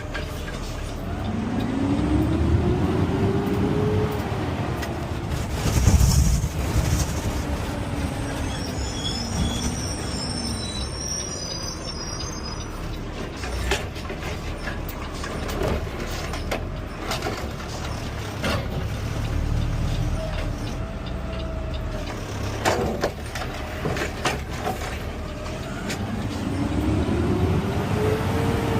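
CNG Peterbilt 520 garbage truck running, heard from the cab: the engine rises and falls in pitch about a second in and again near the end, with a loud knock about six seconds in and clunks and rattles between.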